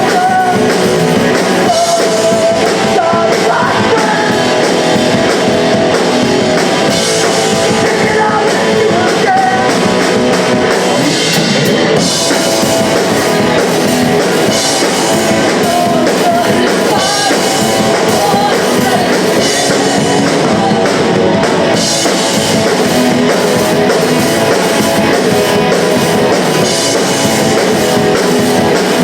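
Punk rock band playing live, with guitar and singing, loud and continuous.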